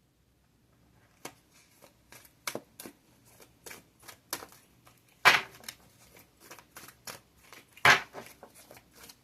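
Tarot cards being shuffled and handled: a run of quick, uneven clicks and slaps starting about a second in, with two louder slaps about five and eight seconds in.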